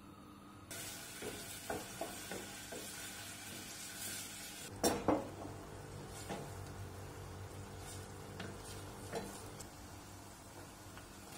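Food sizzling in a frying pan, with a utensil clicking and scraping against the pan. There are two louder knocks about five seconds in.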